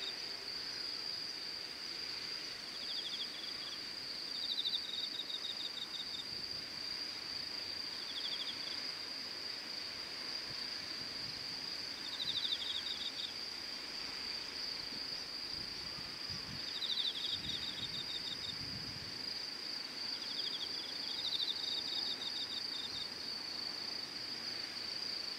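Insects calling in chorus, likely crickets: one keeps up a steady, high, unbroken trill, while short pulsed chirping trills from another come in every few seconds.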